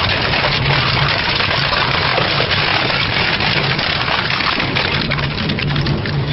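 Double-shaft industrial shredder grinding and tearing metal scrap, a dense, continuous crackling and crunching over the low hum of its drive.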